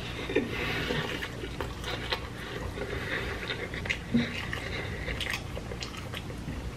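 A person chewing a large mouthful of burger, with many small wet clicks of the mouth.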